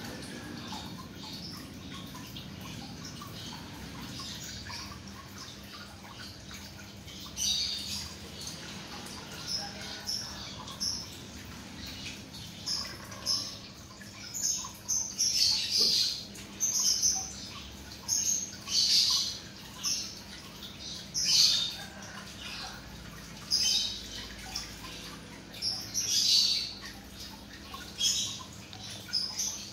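Small bird chirping in short high calls repeated irregularly, starting several seconds in, over a steady low hum.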